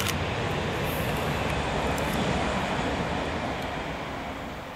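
DB class 440 (Alstom Coradia Continental) electric multiple unit running past, a steady rumble that eases off near the end.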